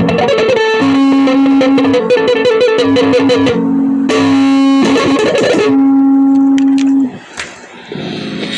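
Guitar music with long held notes, stopping abruptly about seven seconds in, after which a quieter, different sound starts.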